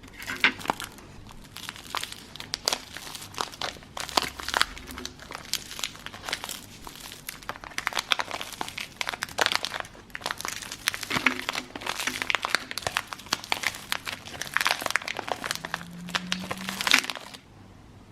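Plastic wrapper of a Loacker wafer pack crinkling as it is handled, a dense run of irregular crackles that stops suddenly near the end.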